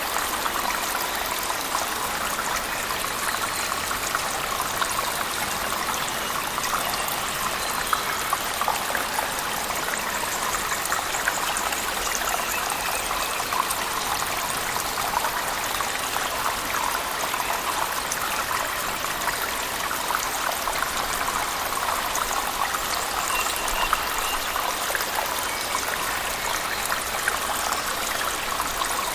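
Cave waterfall and heavy rain, a steady rush of falling water with many small drop ticks through it.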